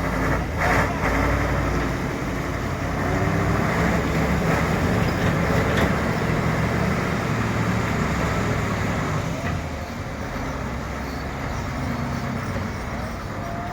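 Mercedes-Benz 2635 truck's diesel engine pulling under load. Its pitch climbs over the first few seconds and holds steady, then it eases off and drops in level about nine and a half seconds in.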